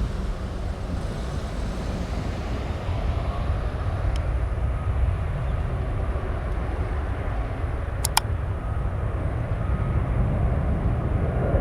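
Steady low rumble of jet aircraft engines, with two sharp clicks about eight seconds in.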